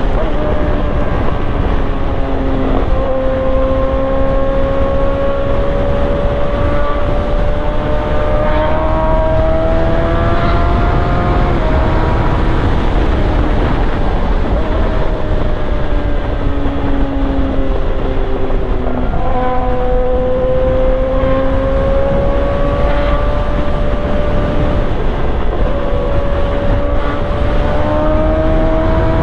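Yamaha R1 inline-four engine and exhaust under way, its pitch climbing slowly under throttle and easing off, with several sudden steps in pitch as gears change. A low wind rumble runs beneath.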